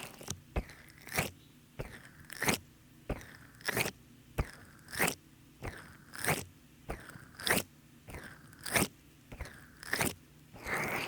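Oil-slick hands rubbing in a steady rhythm, making short wet squelching strokes about one every 0.6 seconds, every other one louder; the squelch comes from too much massage oil.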